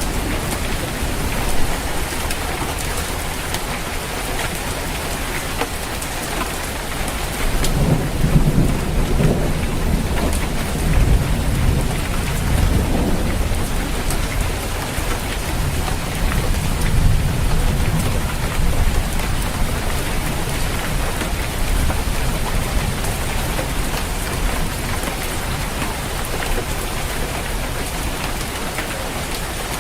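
Steady rain falling on a roof, with a long, low roll of thunder rumbling from about eight seconds in until around nineteen seconds.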